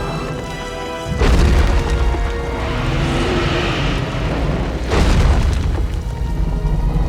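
Action-film soundtrack: orchestral score with sustained chords, broken about a second in by a sudden loud, deep boom whose rumble carries on, and a second loud boom around five seconds in.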